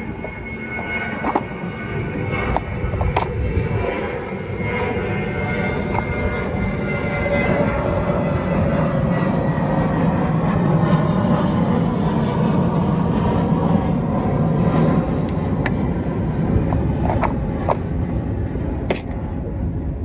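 Steady engine drone with a few tones slowly falling in pitch, building to its loudest around the middle, over a low rumble of wind on the microphone, with scattered small clicks.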